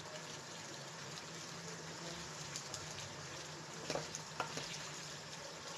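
Chicken and tomato karahi sizzling in a nonstick pan over raised heat while a spatula stirs it, with a few light clicks of the spatula against the pan around the four-second mark.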